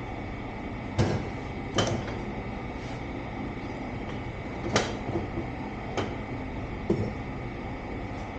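Five short, sharp knocks and clunks at uneven intervals over a steady background hum, from a skid steer tire and tools being handled while an inner tube is worked into it.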